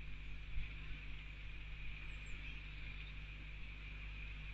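Steady hiss of rain with a low electrical hum under it. There is a soft knock about half a second in and a faint, high bird chirp about two seconds in.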